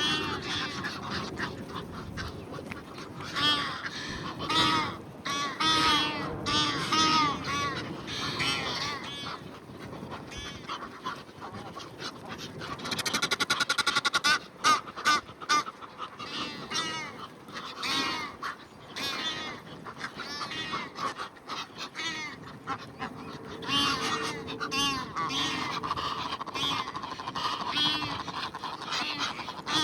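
A flock of waterfowl calling over one another: repeated honks from geese and quacks from ducks. About 13 seconds in, a loud, harsh run of calls rises above the rest for a second or two.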